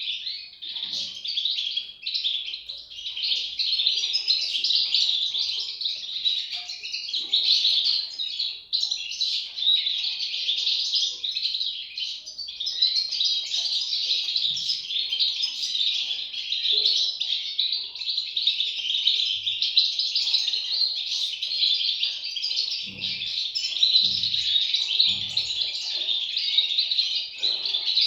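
A brood of European goldfinch chicks chirping continuously: many high, rapid calls overlapping in an unbroken chorus.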